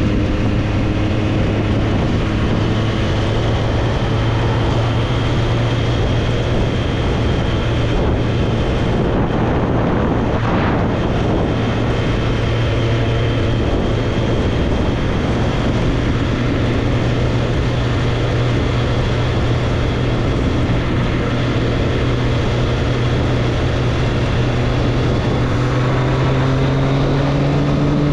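Triumph Street Triple's inline three-cylinder engine running steadily under way, with road and wind noise. The revs rise near the end as the bike accelerates.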